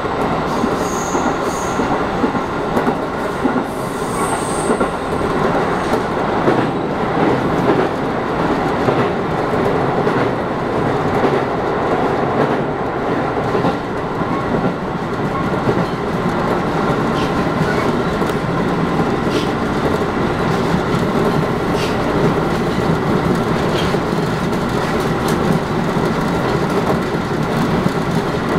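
JR East 211 series electric multiple unit running at speed, heard from inside the front car: a steady rumble of steel wheels on rail with a faint motor hum. A couple of brief high wheel squeals come in the first few seconds.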